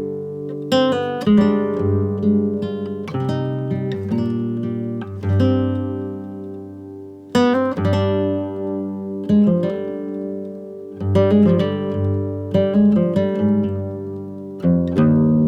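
Background music: acoustic guitar strumming chords, each chord ringing out and fading before the next.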